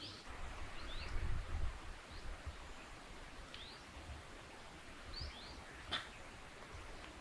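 A bird repeating short, rising chirps every second or so, over a low rumble that swells about a second in. A sharp click comes near the end.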